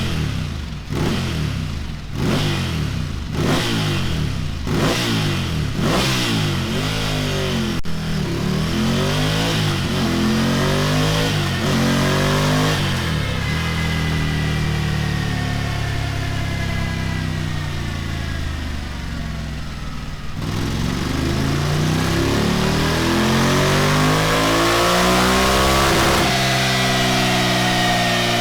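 Ducati Scrambler Desert Sled's air-cooled V-twin through a Delkevic oval 14-inch carbon fibre silencer: a series of quick throttle blips, each less than a second apart, then longer rises in revs. It gets louder about two-thirds of the way in and stays loud.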